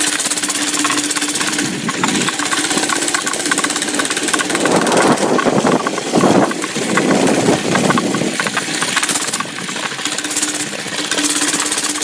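Mini bike's small engine running, with a steady drone that gets louder and rougher for a few seconds in the middle, as the bike is ridden, then settles back.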